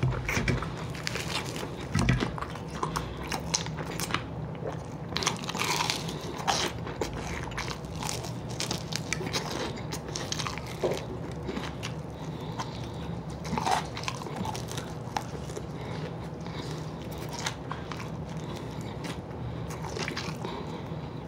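A person biting and chewing crispy fried whole chicken wings close to the microphone, with irregular crunches, over a steady low hum.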